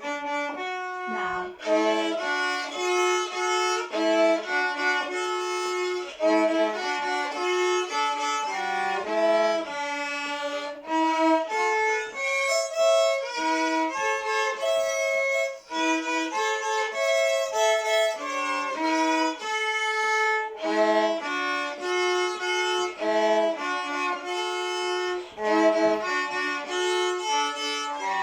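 A violin playing a melody, a steady run of notes changing every fraction of a second, sometimes two notes sounding together.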